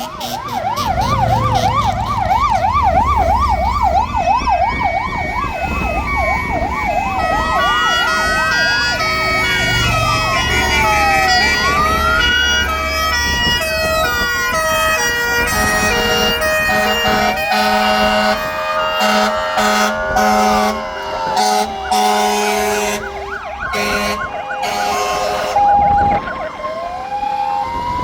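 Several fire engine sirens sounding at once as a column of fire trucks passes: a fast yelp in the first few seconds, then slow rising and falling wails overlapping with stepped two-tone sirens, with short low horn blasts in the second half over the rumble of the trucks' engines.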